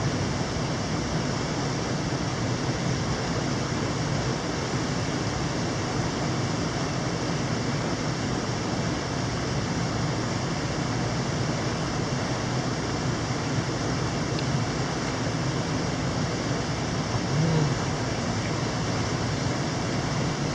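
Mountain stream rushing over rocks: a steady, even water noise without breaks.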